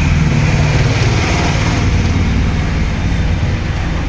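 An engine running steadily in the background, a loud low rumble with an even pulse.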